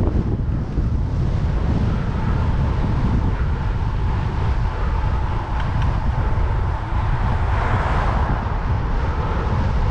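Strong wind buffeting the microphone of a bicycle-mounted camera, a loud, steady rumble, with a faint steady whine running through it.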